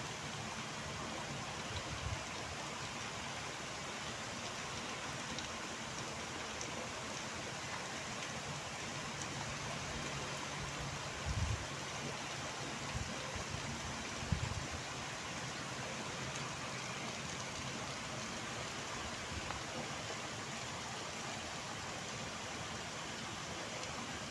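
Steady heavy rainfall, an even hiss of falling rain, with a few brief low thumps, the loudest about eleven and fourteen seconds in.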